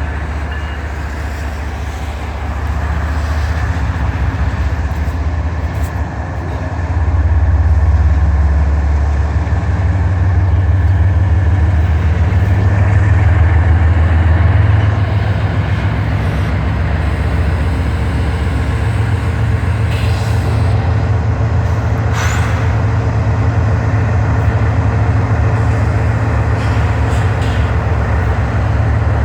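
Diesel freight locomotives, EMD SD40s among them, with their two-stroke engines rumbling steadily and low as the train runs past. The rumble grows louder about seven seconds in.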